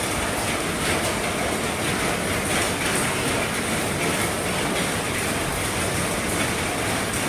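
Heavy rain falling on an RV's roof, a steady dense patter of drops that keeps an even level throughout.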